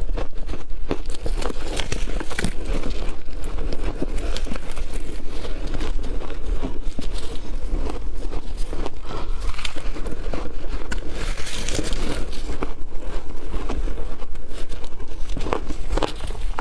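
Biting and chewing chunks of ice: a dense, continuous run of crunches and cracks.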